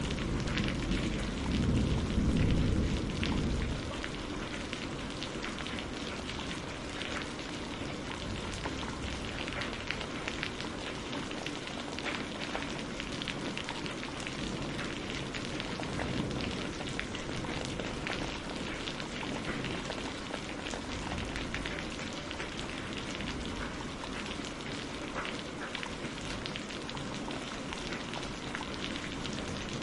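Steady rain falling on a greenhouse roof, an even hiss with fine drop ticks. A low thunder rumble fades out over the first few seconds, and another rumble begins right at the end.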